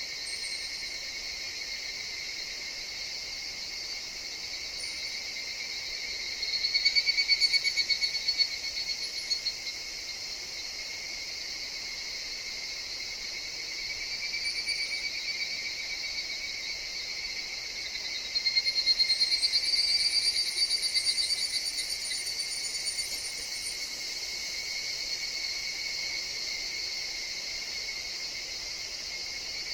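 Higurashi evening cicadas calling in a steady, ringing chorus, with two louder bouts, one about seven seconds in and another about eighteen seconds in, each fading away over a few seconds.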